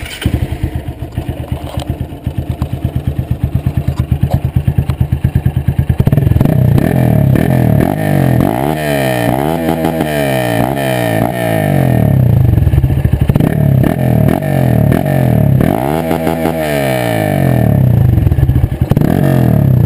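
Honda CRF 230's single-cylinder four-stroke engine through a Viola Racing aftermarket exhaust. It runs at a pulsing low-rev beat for the first few seconds, then is revved: several quick blips up and down about halfway through, then held at high revs with one dip.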